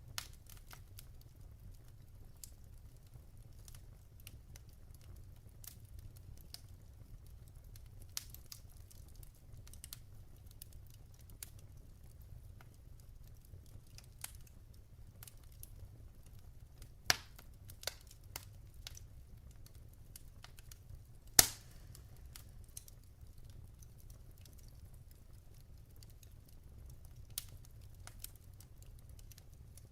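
Wood fire burning in a fireplace: scattered soft crackles over a low steady rumble, with two loud sharp pops about 17 and 21 seconds in as the logs burn.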